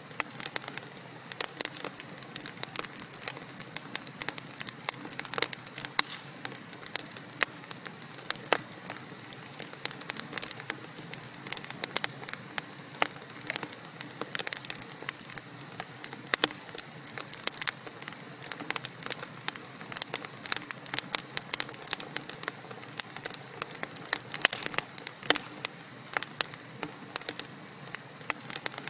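Wood fire crackling: logs burning in a fireplace, with many sharp irregular pops and snaps over a soft steady hiss.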